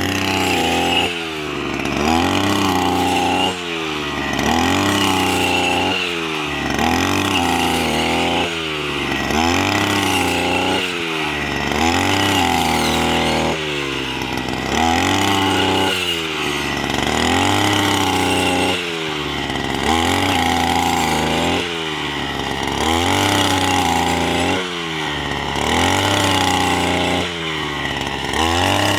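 Engine of a wheat-cutting machine running under load, its pitch rising and falling in a regular cycle about once every second and a quarter, with a steady high whine over it.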